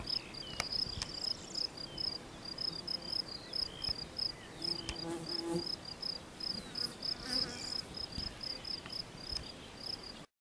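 A stridulating insect, a cricket or grasshopper, calling with short high chirps repeated evenly about three times a second.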